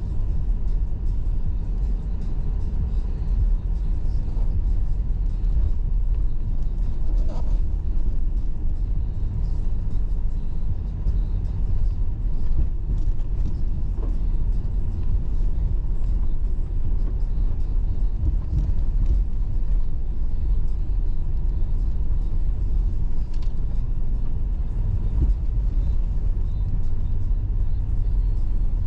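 Toyota Land Cruiser driving, a steady low engine and road rumble with no change in pace.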